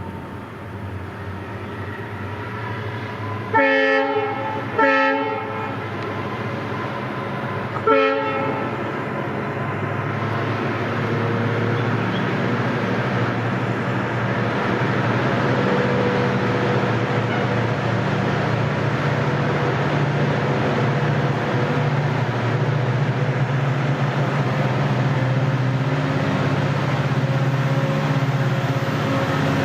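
WDG-4D diesel locomotive sounding its horn in three short blasts, two close together about four and five seconds in and a third near eight seconds. Its engine and the train's running noise follow, growing steadily louder as the train comes on.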